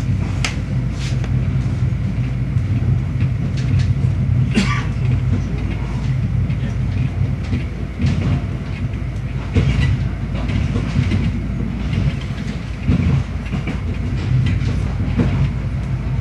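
Passenger train running at speed, heard from inside the carriage: a steady low rumble and hum, broken by irregular sharp clicks and knocks every few seconds.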